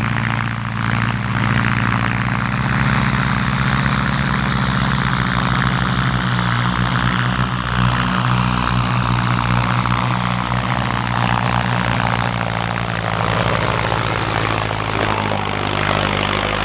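Farm tractor's diesel engine running steadily with an even low drone and a hiss of noise above it.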